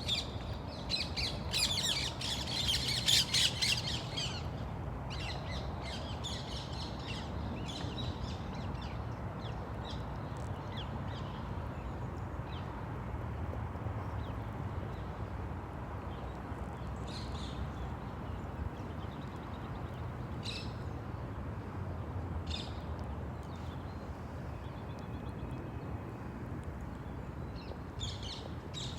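Birds calling: a dense burst of high squawking calls in the first few seconds, then scattered single calls, over a steady low background rumble.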